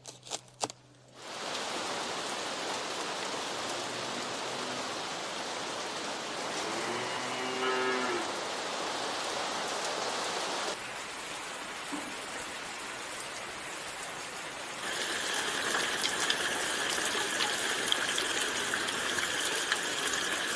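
Heavy monsoon rain falling steadily. About seven seconds in, a cow moos once. From about fifteen seconds in, a steady high tone joins the rain.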